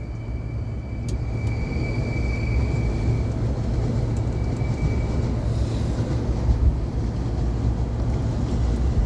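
Inside a JR Utsunomiya Line commuter train carriage: a steady low rumble, with a faint high whine that comes and goes over the first five seconds.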